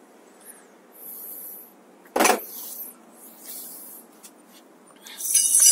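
Handling noises from working on a bicycle with hand tools: a short hiss about a second in, one sharp knock just after two seconds, then rubbing and a louder scraping rustle near the end.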